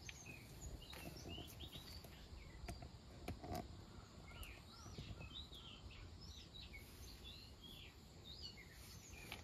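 Small birds chirping with short notes that swoop up and down, many calls in quick succession, faint.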